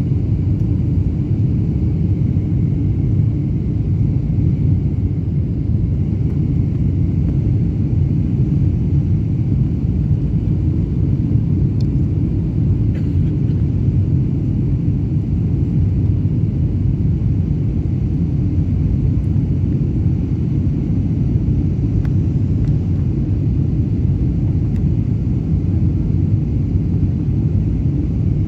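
Steady low rumble of an airliner in flight or on the landing roll, even throughout with no distinct thumps or changes.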